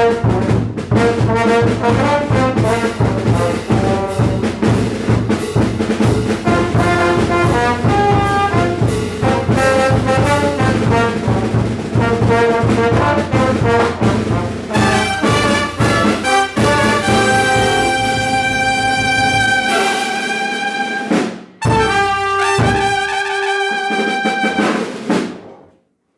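Banda brass ensemble of trumpets and trombones over drums and a pulsing bass beat, playing a song to its close. After about two-thirds of the way in, the beat drops out and the brass plays long held chords, with a brief break. A final sustained chord then stops shortly before the end.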